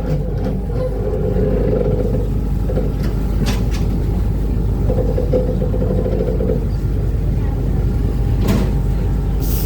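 Uber Boat river ferry running at speed: a steady low engine drone mixed with rushing water and wind. Three short noises stand out on top of it.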